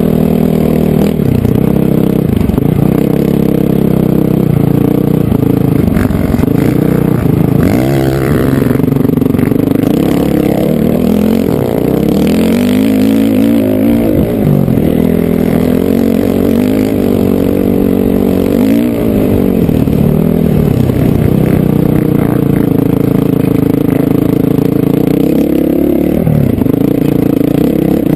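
Honda CRF450R dirt bike's single-cylinder four-stroke engine running hard on the move, its pitch rising and falling with the throttle, with a few sudden drops and climbs as it is revved.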